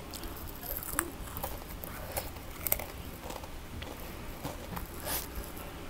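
Biting and chewing a crunchy white-chocolate Pepero biscuit stick, with irregular crisp crackles as the biscuit breaks in the mouth.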